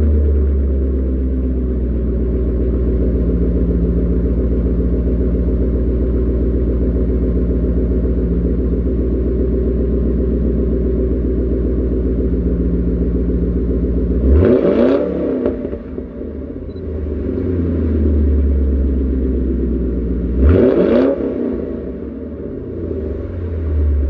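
2006 Lincoln Town Car's 4.6-litre V8 idling steadily through a Roush axle-back exhaust, blipped twice with quick revs that rise and fall back to idle, about six seconds apart in the second half.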